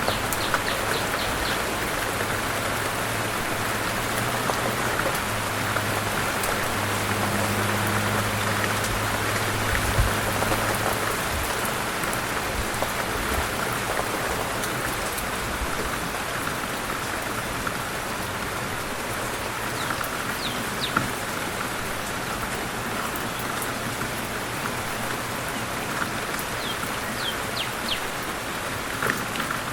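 Steady rain falling on a surface, an even hiss full of small drop clicks, with a few short high chirps near the start and again in the last third.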